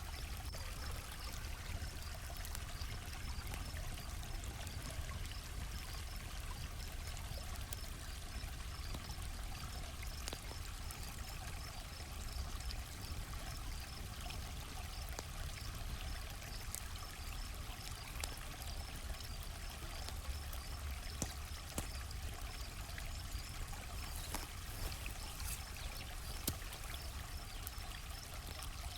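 Campfire crackling with scattered sharp pops over a steady rushing noise like a flowing creek, while crickets chirp in an even, regular pulse.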